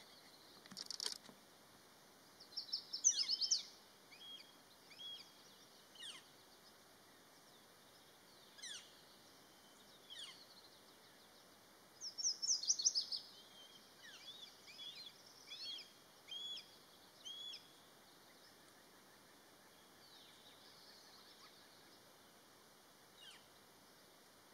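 Birds calling: bursts of quick, high-pitched chirps and trills, loudest about three seconds in and again around twelve to thirteen seconds, with single short calls in between, over a faint steady hiss.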